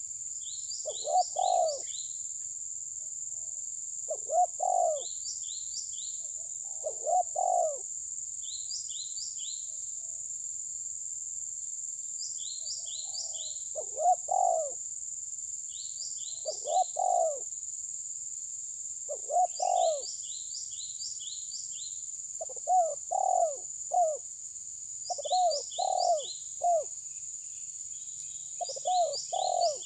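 Birds calling: a low cooing phrase of a few notes about every three seconds, and a higher, thinner chirping in quick runs of three to five notes, over a steady high hiss.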